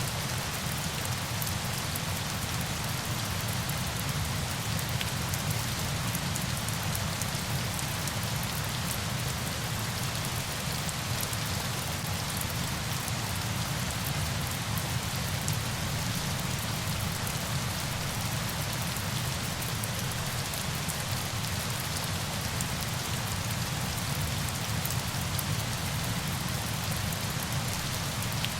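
Steady, even hiss of falling water, with a deep rumble underneath and a fine crackle of drops on top.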